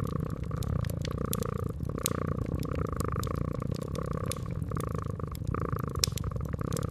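A house cat purring steadily, the purr swelling and easing with its breaths about once a second, over the irregular crackles and pops of a wood fire.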